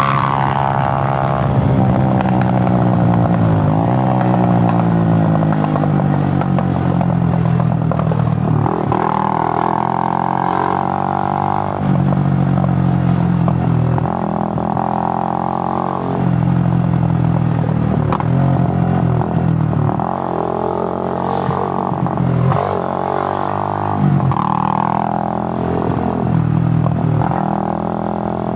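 Suzuki GN125's single-cylinder four-stroke engine running on the move, its revs repeatedly climbing and then dropping, about every two seconds in the second half, as the rider accelerates, shifts and backs off the throttle.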